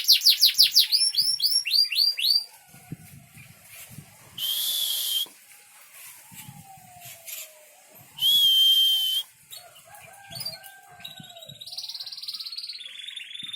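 Small songbirds singing: a fast run of down-slurred whistled notes, about six a second, that breaks off after two seconds. Then come two loud, harsh, hissing calls about a second long each, and a buzzy trill starting near the end.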